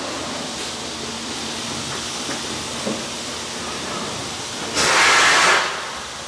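Blow molding machine running with a steady mechanical hum, then a loud hiss of compressed air about five seconds in that lasts under a second, typical of blow air venting from the mold.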